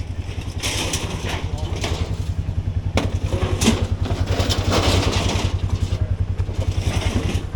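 A heavy-equipment diesel engine runs steadily with a low, even throb, with scattered knocks and scraping from debris being moved.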